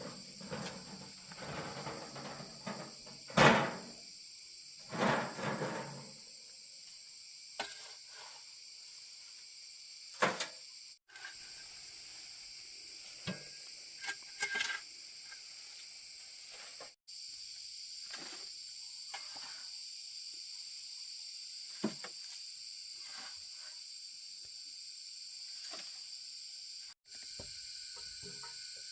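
Scattered knocks and scraping over a steady high-pitched insect chorus. The loudest knock comes about three seconds in, amid a few seconds of rustling and scraping; after that there are only single knocks every few seconds.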